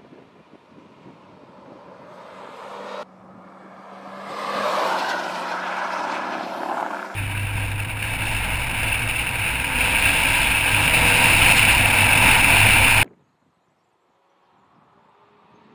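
Renault Clio RS 200's turbocharged 1.6-litre four-cylinder engine driven on a race track, first heard from trackside and growing louder as the car approaches. About seven seconds in it is heard close up from the car's flank at speed, engine and rushing wind loud and getting louder, until it cuts off suddenly about thirteen seconds in, leaving near silence with a faint sound returning near the end.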